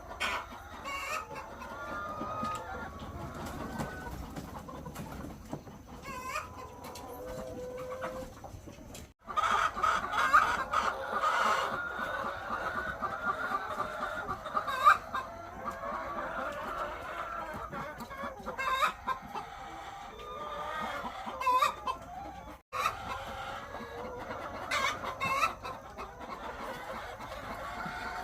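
A large flock of egg-laying chickens clucking, many calls overlapping in a steady din, broken by two brief silent gaps about nine and twenty-three seconds in.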